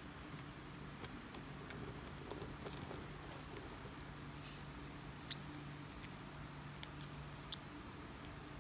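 A Forpus parrotlet giving three short, high squeaks in the second half, over faint scattered ticks and a steady low hum.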